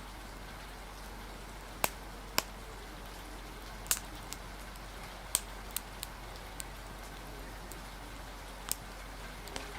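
Steady rain with the irregular sharp pops and crackles of a wood fire, about ten separate snaps scattered unevenly through it.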